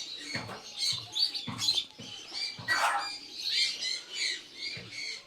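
Birds chirping with many short, high chirps. Soft knocks and a brief rustle about three seconds in come from handling.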